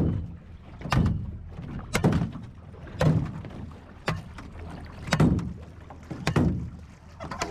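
Small jon boat's hull slapped by waves: a series of sharp thumps at roughly one-second intervals, seven in all, over low background noise.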